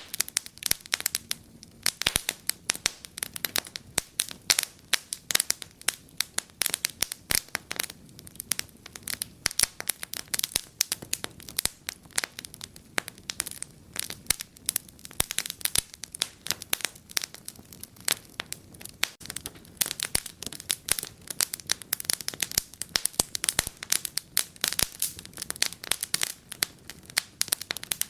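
Wood fire in a fireplace crackling and popping: dense, irregular sharp snaps over a soft low hiss of burning.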